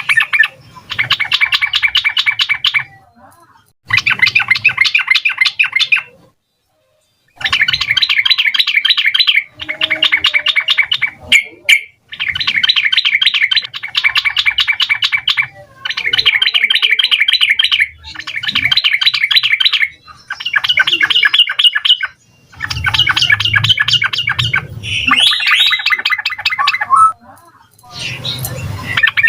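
Yellow-vented bulbul (trucukan) singing loud, rapid chattering phrases of quickly repeated notes. Each burst lasts about a second and a half to two seconds, with short pauses between bursts.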